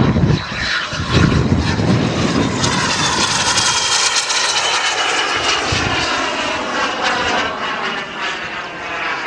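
Radio-controlled model aircraft engine running loud and high-pitched as the model flies, its pitch slowly shifting. A few low thumps in the first couple of seconds.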